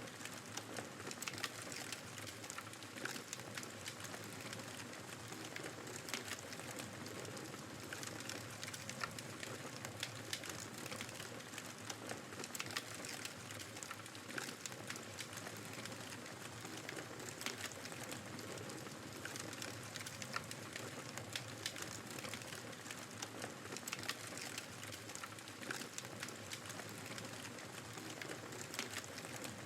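Fireplace crackling with frequent small pops and snaps over the steady rushing noise of blizzard wind.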